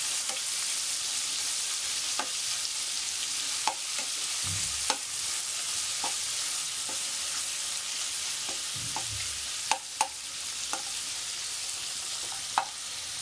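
Small prawns and browned sliced onion sizzling in hot oil in a metal kadai, stirred with a metal spatula that clicks and scrapes against the pan every second or so.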